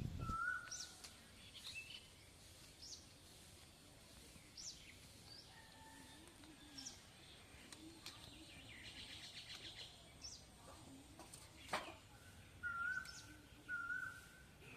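Birds chirping faintly, scattered short high chirps with two short warbling calls near the end, and a single sharp click about twelve seconds in.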